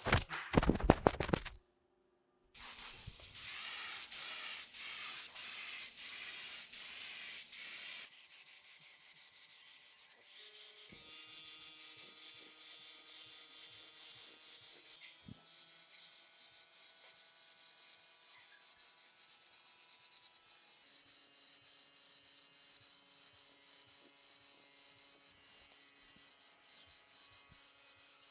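Wood being sanded: a steady rasping, rubbing noise that goes on and on, after a few sharp knocks in the first second and a half.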